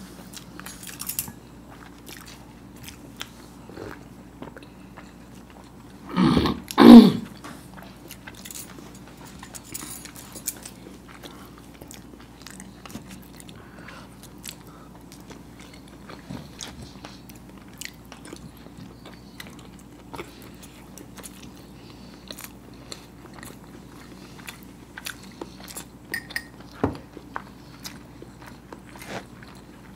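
Close-up eating of hard-boiled eggs: soft wet chewing and small mouth clicks. About six seconds in there is a brief, loud, voice-like sound in two quick pulses.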